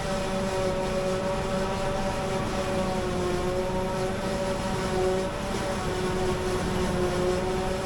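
Claas Jaguar 870 forage harvester at work, its 16-litre Mercedes engine and chopping gear running steadily under load with a steady whine that wavers slightly over a low rumble.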